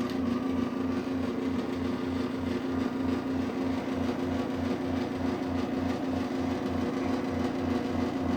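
Craftsman garage door opener running through its closing cycle: a steady motor hum with a regular low pulse about three to four times a second.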